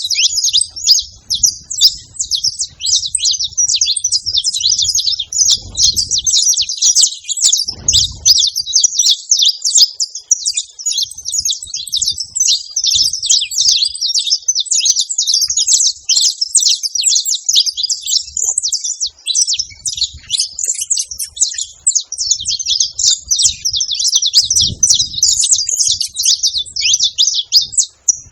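Saffron finches chirping and chattering without a break, a dense stream of rapid, high, overlapping notes.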